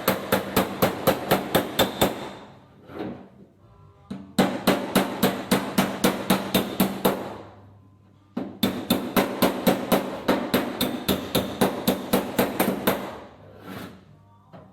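Hammer and dolly working a welded repair patch in a Holden Torana's steel rear quarter panel, striking quick, even blows about four a second. The blows come in three runs with brief pauses between them.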